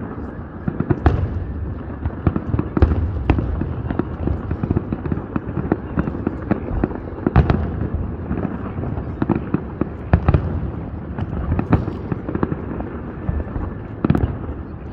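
Aerial fireworks display: a continuous low rumble of overlapping bursts with irregular sharp booms and cracks, the strongest coming every second or two.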